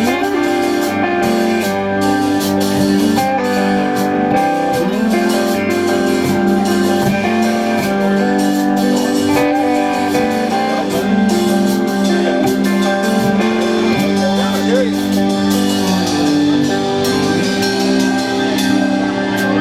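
Live band playing an instrumental passage: guitar with sustained chords and drums keeping time.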